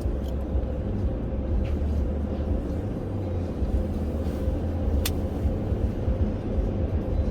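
Steady low rumble of a car, heard from inside, with a faint steady hum and an occasional light click.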